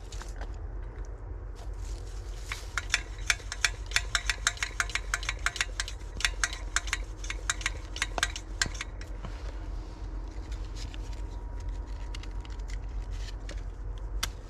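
A quick run of sharp taps or clicks, about four or five a second, for some six seconds, then a few scattered ones near the end.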